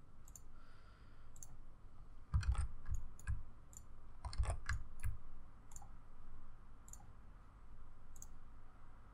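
Computer mouse clicking at irregular intervals, about a dozen short clicks, a few of them around two and a half and four and a half seconds in landing with a duller low knock.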